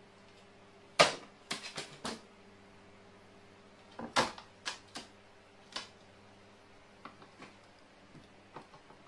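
Irregular sharp knocks and clicks on a hard surface, in two clusters of several quick taps about a second in and about four seconds in, then a few fainter ticks near the end, over a faint steady hum.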